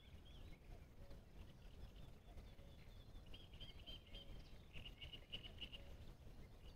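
Near silence outdoors with faint distant birdsong: scattered high chirps and a couple of short rapid trills around the middle.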